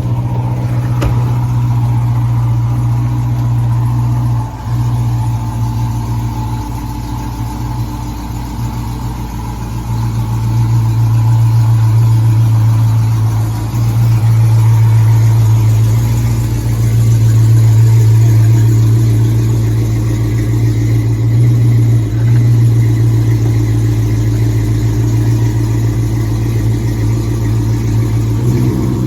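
Swapped 6.1 Hemi V8 in a 2014 Dodge Charger running loud and steady through catless headers and a Flowmaster exhaust, a deep, even rumble with a few brief dips in level.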